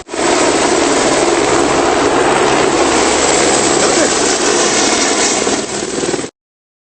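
Helicopter cabin noise, a loud steady roar of rotor and turbine that cuts off suddenly near the end.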